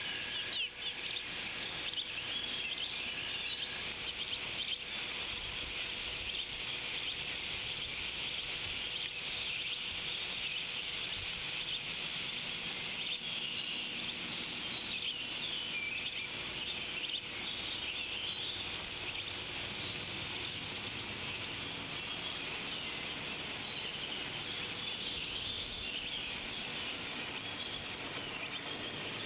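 Birds chirping and singing again and again over a steady outdoor hiss.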